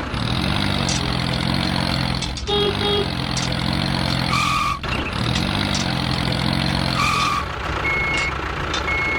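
A vehicle engine revs up and holds three times. A short two-tone beep sounds twice, and from about eight seconds in there are thin reversing-style beeps about once a second.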